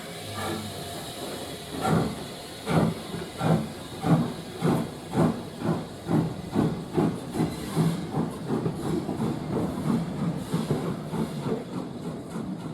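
Steam locomotive chuffing as it pulls away, with a hiss at first. The exhaust beats start about a second apart and quicken steadily to about three a second.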